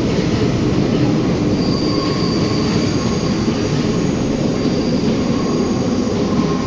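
Paris Métro line 7 train running through the tunnel, heard from on board: a steady rumble of steel wheels on rail, with a thin high-pitched wheel squeal coming in about a second and a half in and holding.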